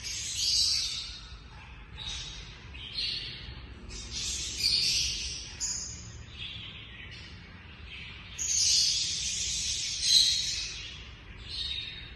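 Small pet parrots chirping and chattering in short bouts of a second or so, with a longer, louder bout from about eight to ten seconds in.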